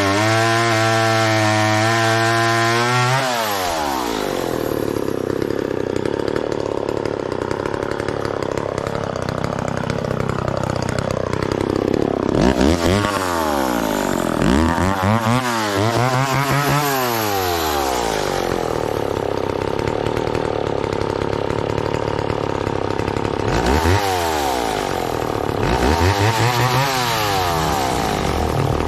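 McCulloch Mac 10-10 two-stroke chainsaw held at full throttle, then dropping back to idle after about three seconds. It idles and is revved up and back down several times, in a group of blips past the middle and another near the end.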